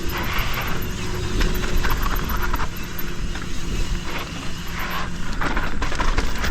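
Mountain bike riding fast down a dirt trail: wind rumbling on the camera microphone over tyre noise and the bike's rattles and knocks from the rough ground.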